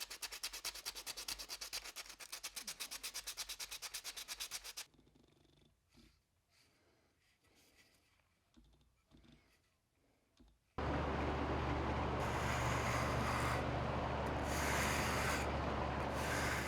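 Fast, even rubbing strokes of abrasive on wood, stopping about five seconds in; after a few quiet seconds with light clicks, a power tool's motor starts about eleven seconds in and runs steadily with a low hum.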